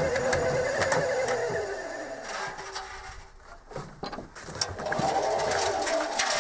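Washing machine motor running with a wavering whine and clicking, dying away about two seconds in and starting up again about five seconds in.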